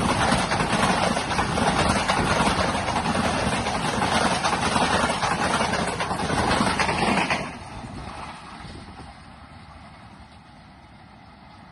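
The 14 Down Awam Express passenger train runs through the station without stopping, its wheels loud on the rails. About seven and a half seconds in, the last coach passes and the sound drops away sharply to a low rumble.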